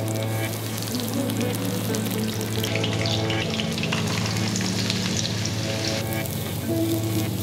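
Sliced ginger and garlic sizzling and crackling in hot oil in a wok, stirred with a spatula. About four seconds in, chunks of king oyster mushroom are tipped in and stir-fried, and the sizzle carries on.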